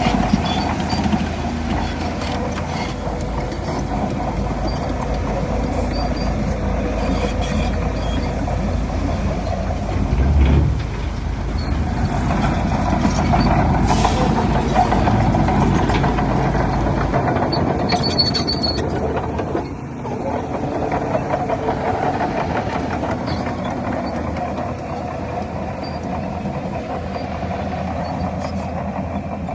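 Heavy diesel earthmoving machinery running continuously at a site where a bulldozer and dump trucks are at work, with a low thud about ten seconds in.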